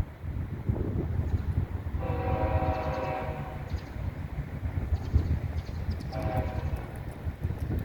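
Diesel freight locomotive horn: one long blast about two seconds in and a short blast near the end, over the train's steady low rumble.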